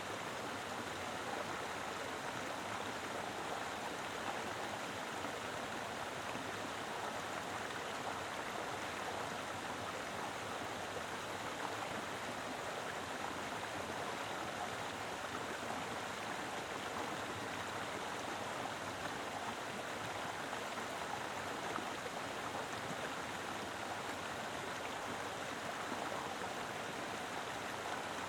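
Mountain river flowing over rocks: a full, steady rush of water with no breaks.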